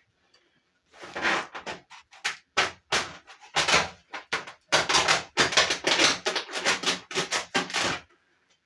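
A rapid, irregular run of rustling and knocking handling noises that starts about a second in and stops shortly before the end.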